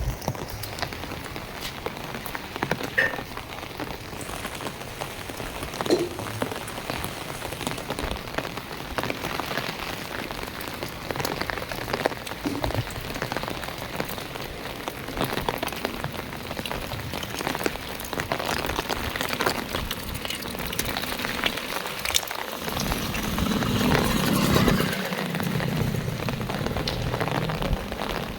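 Heavy monsoon rain falling steadily, with many close drops striking as sharp ticks over the hiss. About three quarters of the way through it swells into a louder, lower rush for a few seconds.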